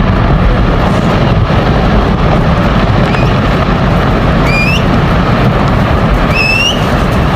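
Loud, steady rumbling roar with three short rising whistles about three, four and a half and six and a half seconds in.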